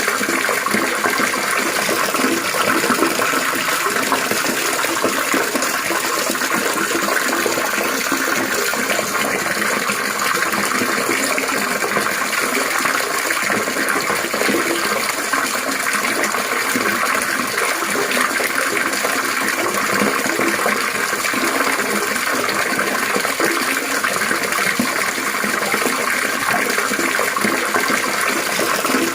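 Water trickling and splashing steadily, without letup.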